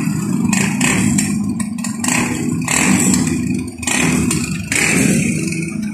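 Small motorcycle engine running steadily close by as it moves through deep floodwater, with repeated surges of splashing water.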